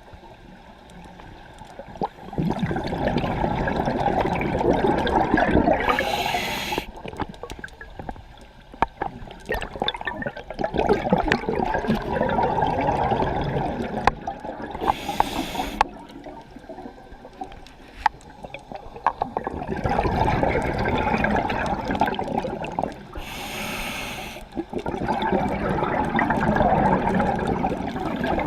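Scuba diver breathing through a regulator underwater, in slow cycles every eight seconds or so. Each breath is a brief hiss as the regulator delivers air, then several seconds of bubbling exhaust as the breath goes out.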